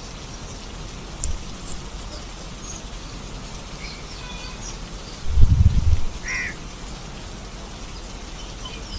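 Steady rainfall with scattered drop ticks. About five seconds in, a short, loud low thump or rumble stands out, and just after it a single brief bird call.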